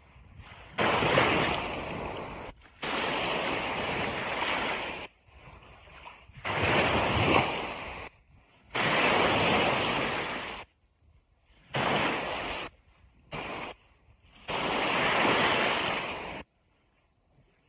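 Ocean surf on a beach: the rushing noise of waves, which starts and stops abruptly several times, with sudden gaps of near silence in between.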